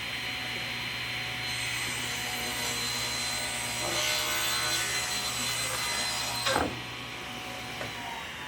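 Power woodworking machine running and cutting a buckeye slab, a steady whine with a low hum. About two-thirds of the way in the cut ends with a brief clunk and the machine is shut off, its whine slowly falling as it spins down.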